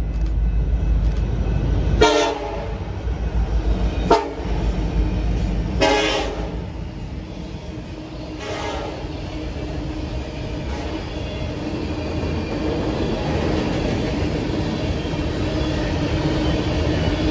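Diesel train's horn sounding four blasts about two seconds apart over the locomotive's rumble, then the steady rumble and rattle of the train rolling past.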